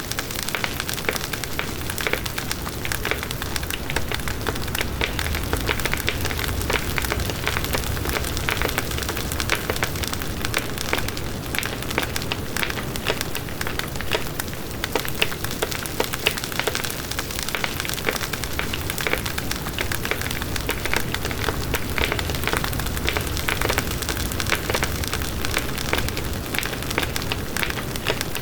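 Campfire burning: dense, continuous crackling and popping of wood, over a low rumble of the flames.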